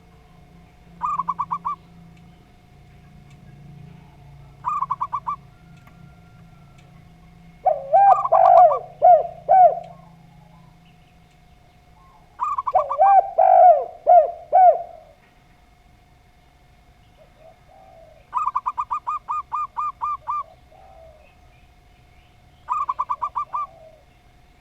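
Zebra dove (perkutut) and spotted dove (tekukur) calling in turn. The zebra dove gives short, rapid trilled cooing phrases four times. The spotted dove gives two louder, deeper series of coos about 8 and 13 seconds in.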